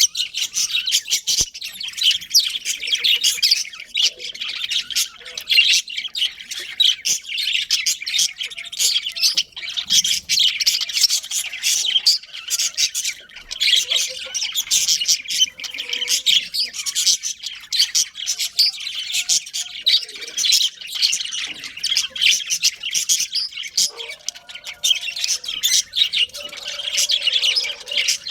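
Budgerigars chirping and chattering, many birds at once in a constant stream of short overlapping chirps and squawks.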